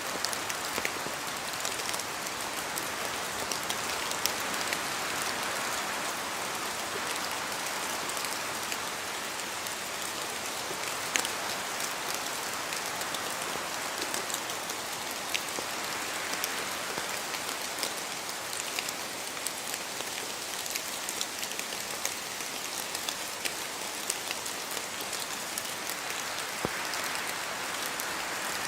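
Rain falling through spruce trees: a steady hiss scattered with many sharp single drop hits. Wind in the trees swells gently a few times.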